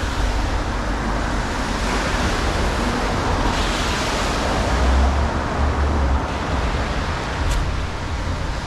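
Highway traffic passing: a steady rushing noise over a deep rumble, with one vehicle swelling past around the middle.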